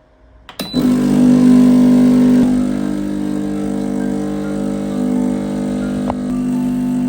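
An electric household appliance switched on with a click, then running with a loud, steady hum.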